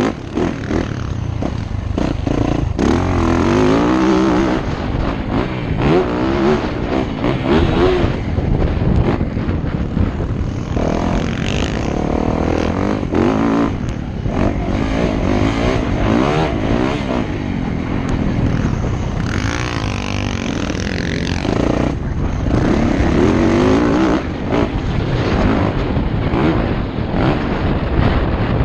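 Dirt bike engine revving up and falling back again and again as it is ridden on a motocross track, with the throttle opened and closed through the sections.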